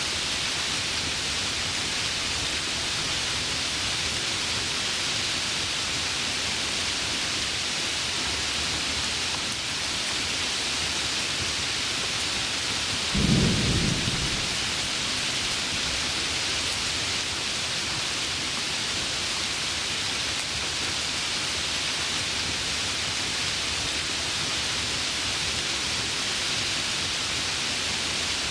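Heavy rain falling steadily, with one short, low clap of thunder about halfway through that rumbles away within a second or so.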